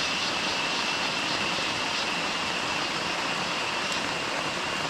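Heavy rain pouring steadily as a dense, even hiss, with a thin, steady high-pitched whine running through it.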